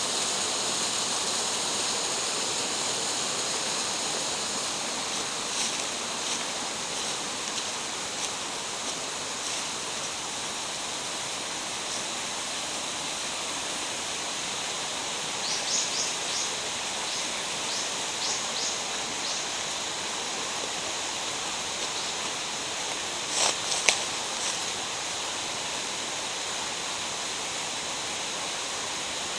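Steady rush of water from a mountain gorge stream. A run of light clicks comes just past the middle, and a couple of sharper knocks come near the end.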